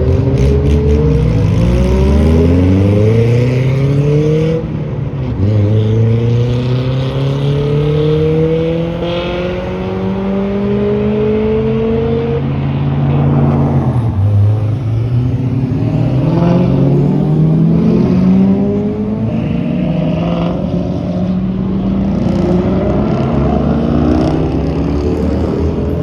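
Car engines accelerating hard one after another. Each engine note climbs steadily in pitch through the revs, then drops back at a shift or as the car pulls away.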